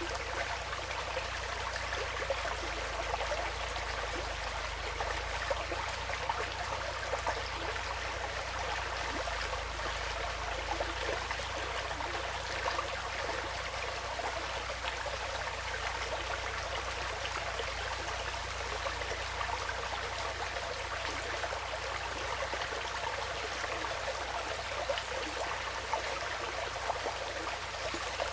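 Small stream flowing and trickling steadily over stones, a continuous babbling wash with a low rumble underneath.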